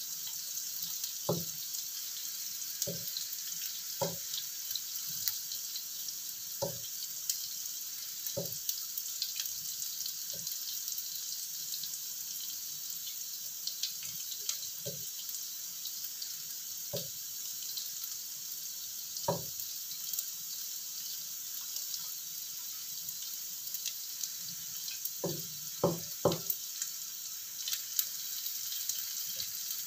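Tempe cubes and small dried anchovies frying in oil in a wok: a steady sizzling hiss, with a wooden spatula knocking against the pan every second or two as they are stirred, and a quick run of knocks near the end.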